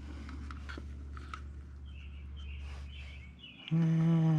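Faint bird chirps over a steady low hum, with a few light clicks. Near the end a loud steady droning tone sets in and holds one pitch.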